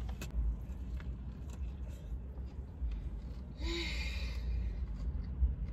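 A person chewing a big bite of sub sandwich, with faint wet mouth clicks over a low hum. About four seconds in comes one short, breathy sigh with a brief voiced "mm" of enjoyment.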